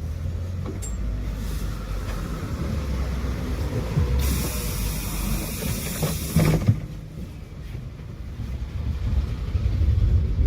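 Tram running with a low rumble. About four seconds in comes a loud hiss lasting about two seconds, ending with a couple of knocks, and near the end a rising motor whine begins as the tram gathers speed.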